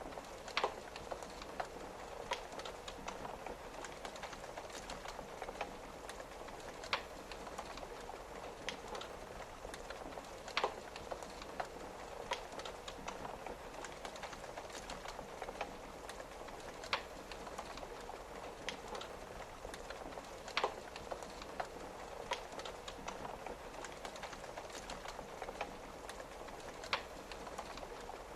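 Wood fire crackling, with a sharp pop every few seconds, over a steady hiss of rain pattering on a window.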